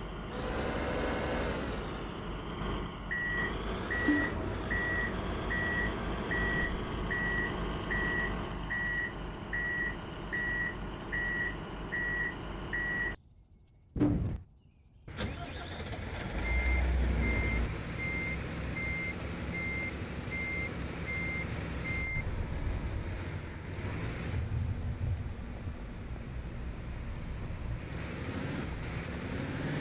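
Reversing alarms of heavy construction machines beeping evenly, a little faster than once a second, over a running engine. A first alarm beeps about a dozen times, then after a brief break a slightly higher-pitched alarm beeps about eight times.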